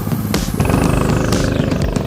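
Mini bike's 211cc single-cylinder four-stroke engine running, with scattered sharp clicks over the engine note.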